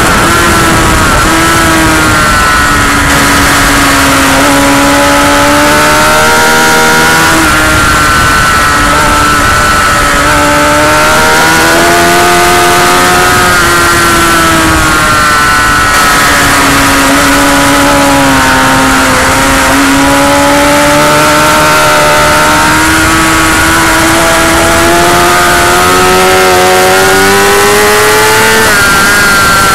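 Motorcycle engine under hard use on a race track, its pitch climbing and dropping again and again as the throttle is opened and closed, under a steady rush of wind noise.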